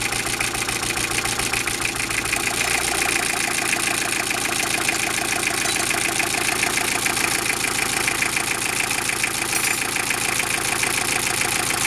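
Toyota Estima Emina's 3C-TE four-cylinder turbodiesel running steadily, with a knock that the owner places in the second cylinder.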